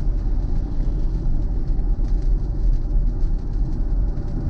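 Steady low road and tyre rumble heard inside the cabin of a Tesla electric car, driving on rain-soaked streets in heavy rain.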